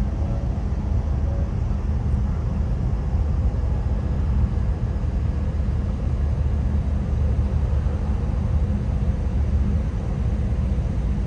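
Steady low rumble and hum of a large car ferry under way, its engines droning evenly.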